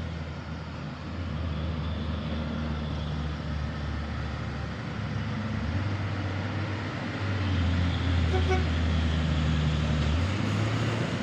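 Heavy diesel truck engine running hard on a climb, its pitch stepping up and down several times and getting louder about two-thirds of the way through.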